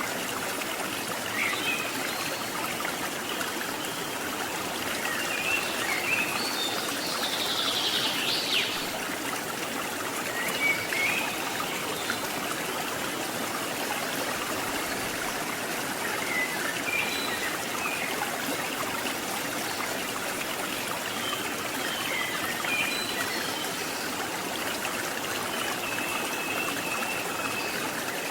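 Steady rush of flowing stream water, with a few short, high chirps scattered over it.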